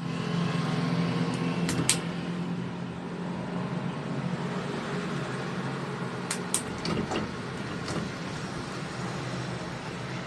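Electric fan running with a steady motor hum and rushing air, with a few sharp clicks, a pair about two seconds in and several more around six to eight seconds in.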